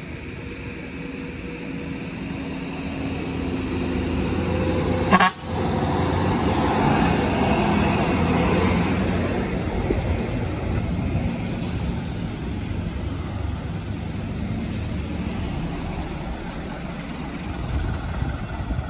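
Heavy sugarcane-laden truck-and-trailer running, its engine rumble building over the first few seconds and staying loud as it goes by. There is a sharp click about five seconds in.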